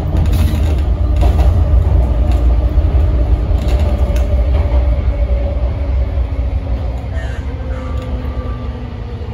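MTR Tung Chung line A-train running along the line: a heavy, continuous low rumble with a steady hum over it, loudest in the first few seconds and easing slightly after that.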